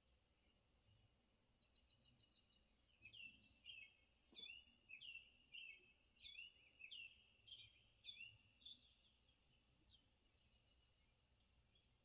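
Faint birdsong played from a TV bird video: a quick high trill, then a string of repeated chirps, each sliding down in pitch, about two a second, stopping about nine seconds in, with a short trill again near the end.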